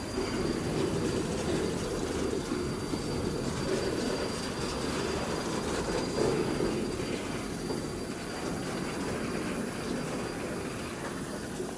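Empty open coal wagons rolling slowly over the rails on a curve, a steady low rumble, with a faint thin high squeal from the wheels. A CC 201 diesel-electric locomotive moves the rake during shunting.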